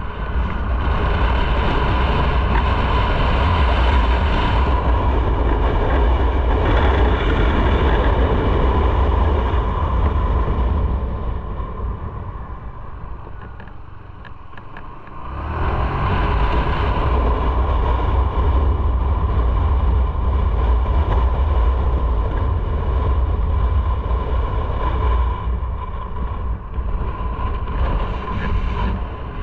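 Motorcycle running on the road, with a deep engine rumble and wind rush on the microphone. Both fade from about eleven seconds in to a low near fourteen seconds, then rise again sharply a second later.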